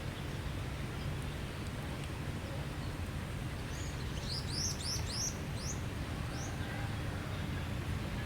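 A quick run of about seven short, high, rising chirps near the middle, over a steady low rumble.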